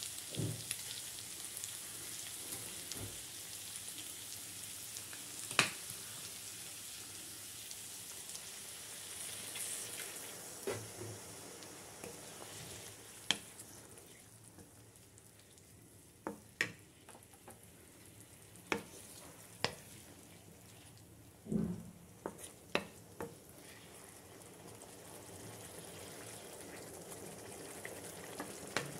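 Masala curry of potatoes, cauliflower and eggs sizzling in a metal kadhai. The hiss is steady and grows fainter through the middle. A wooden spatula stirs it and knocks and scrapes against the pan now and then, most often in the second half.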